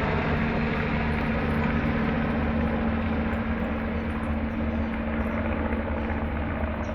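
Helicopter engine and rotors running steadily with a low drone, slowly getting quieter.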